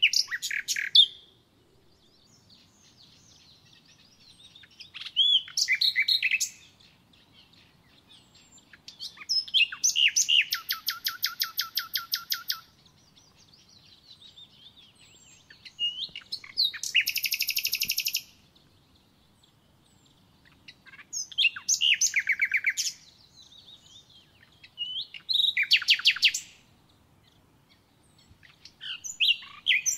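A songbird singing: short phrases about every four to five seconds, each a few whistled notes running into a fast, even trill.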